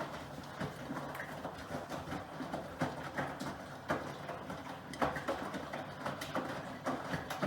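Miele Professional PW6065 Plus washing machine drum turning during the wash, with laundry tumbling and irregular knocks and clicks over a low motor hum.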